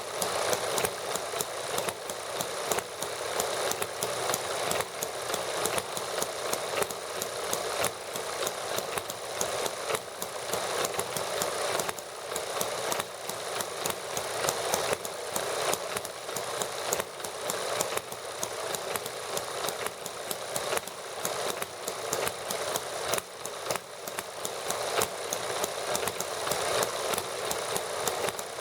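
Small model gasoline engines running steadily together, a fast, even stream of firing clicks with no low rumble.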